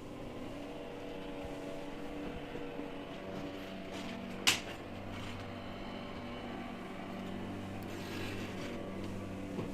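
A steady machine hum with several held tones, broken by one sharp knock about four and a half seconds in.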